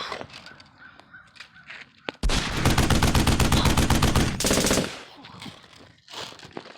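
A rapid burst of automatic fire, about two and a half seconds long, starting about two seconds in.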